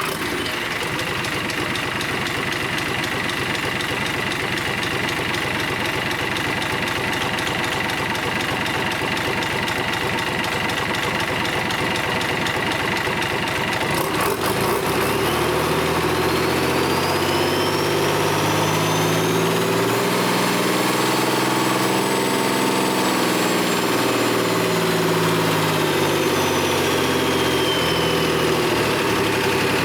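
Isuzu UM6HE1TCX turbocharged six-cylinder marine diesel running at idle. About halfway through it is slowly revved up and brought back down, with the turbo whine rising and falling along with the engine speed.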